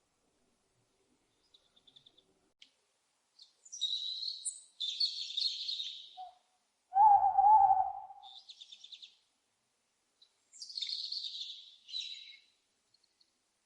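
Owls calling: several short hoarse, high-pitched screeching calls, and about halfway through one louder, lower hoot lasting about a second.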